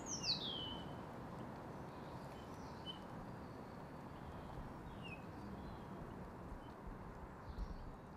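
A bird calling outdoors: a high whistle falling steeply in pitch right at the start, then a few faint short chirps, over a steady low background hiss and rumble, with a soft low bump near the end.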